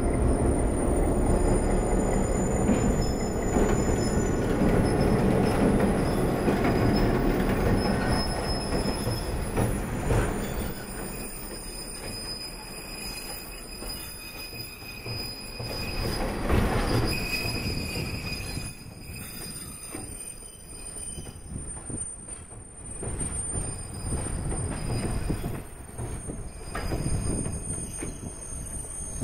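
A train passes over a steel deck bridge, loudest in the first ten seconds as the diesel locomotive, an ex-Conrail EMD GP10, crosses with heavy engine and wheel rumble. Passenger coaches follow, rolling over with steel wheels squealing in steady high tones and occasional knocks at the rail joints.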